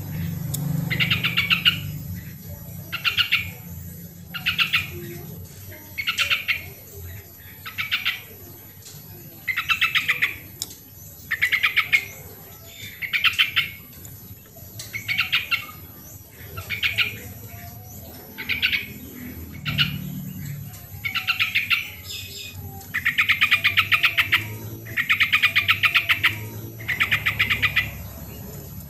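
Yellow-vented bulbul (trucukan) singing: short, bubbly chattering phrases repeated every second or two, the last few drawn out longer.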